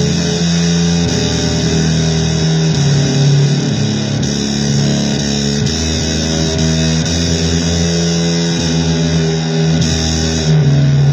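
Electric guitar playing blues, with long held notes over a dense, noisy wash.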